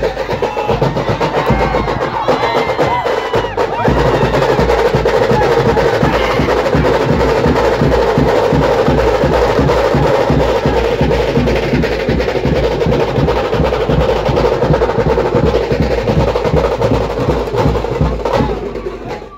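Band percussion in a tingri drum face-off: very fast, dense drumming like a continuous roll over a heavy, steady bass-drum beat. The playing thickens about four seconds in and stops suddenly near the end.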